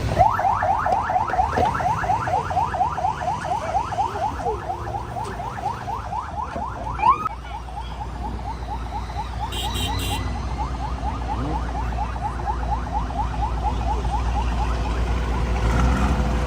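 Convoy escort vehicle's siren in fast yelp, a rapid series of rising sweeps about seven a second. The sweeps get fainter after about seven seconds.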